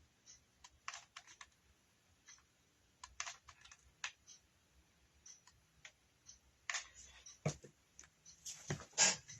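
Scattered light clicks and taps from hands working a hot glue gun and cardboard, with a few louder knocks in the last two seconds.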